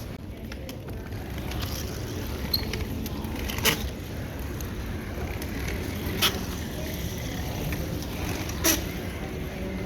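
Roller skate wheels rolling over a hard, slippery terminal floor: a steady low rumble, with three sharp clacks about two and a half seconds apart.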